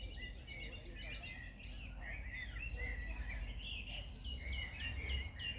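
Several wild birds singing and chirping together over a steady low wind rumble. Near the end one bird repeats a short falling note about five times in quick succession.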